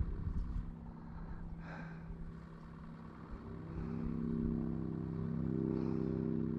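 An engine running steadily with a low hum, getting louder about four seconds in.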